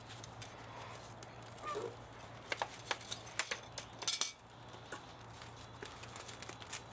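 A quick run of sharp clicks and light knocks, clustered between about two and a half and four seconds in, over a faint steady low hum.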